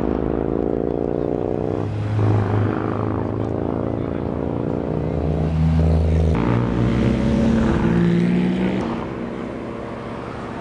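Car engines accelerating past at close range, the pitch climbing in each gear and dropping at several gear changes. Loudest as a car goes by just past the middle, then fading.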